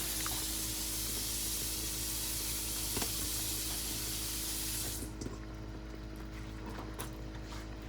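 Tap water running into a kitchen sink, shut off suddenly about five seconds in, followed by a few light clicks and knocks.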